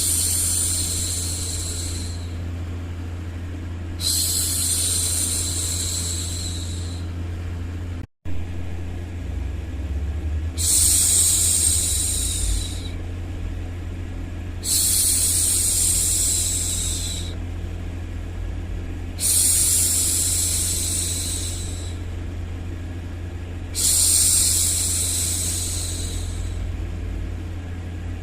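A woman shushing, a long 'shhh' about every four to five seconds, over a steady low rumbling white noise used to soothe a baby to sleep. The sound cuts out for an instant about eight seconds in.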